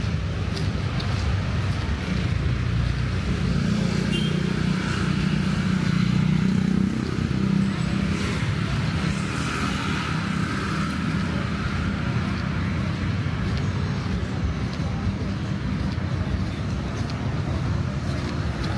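Road traffic on a busy street: car and motorbike engines passing, with a low rumble that swells a few seconds in and eases off about seven seconds in.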